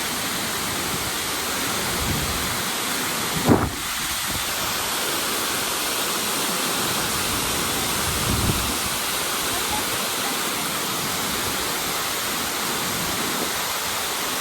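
Tortum Waterfall's water pouring down in a steady, dense rush. A brief low thump comes about three and a half seconds in, and a softer low rumble around eight seconds.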